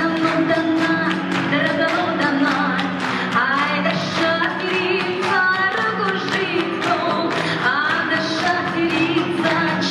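Russian Roma (Gypsy) song with female singing over a fast, steady rhythmic accompaniment.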